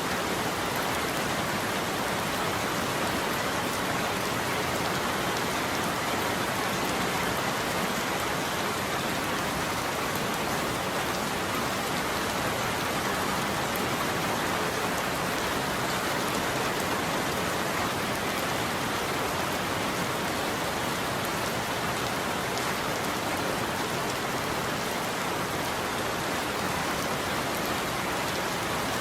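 Steady heavy rain falling on a roof, an even unbroken hiss with no thunder.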